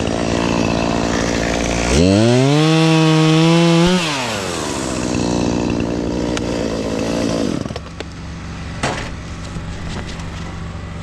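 Chainsaw idling, then revved to full throttle for about two seconds and let back down to idle. Its engine winds down and stops about three-quarters of the way through, followed by a single knock.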